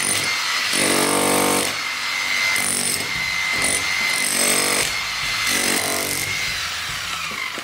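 Electric drill running under load, boring into the concrete foundation for a new anchor bolt, with a steady motor whine and several heavier grinding bursts. Near the end the motor winds down with a falling whine.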